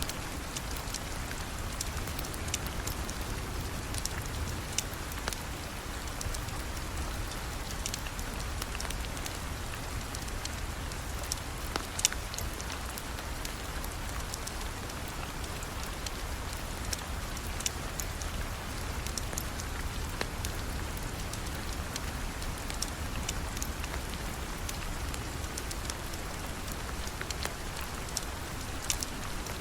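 Steady rain falling, with scattered sharp pops throughout, the loudest about twelve seconds in.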